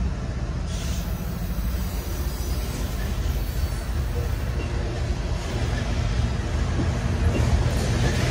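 A train's diesel locomotive rumbling low and steadily, growing louder toward the end as it draws nearer.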